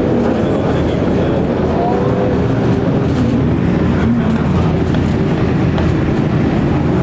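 Supercar engines running loudly, with short rising revs as cars pull away over a steady dense rumble.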